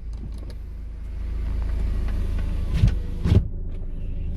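Renault Samsung QM5's engine idling, heard from inside the car, with two short low groans about three seconds in, half a second apart. These are the steering-column noise that comes from a dry column lower seal as the wheel is turned.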